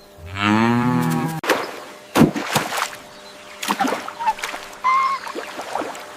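Cow mooing: one low call of about a second, just after the start, followed by scattered sharp clicks and a couple of short higher calls.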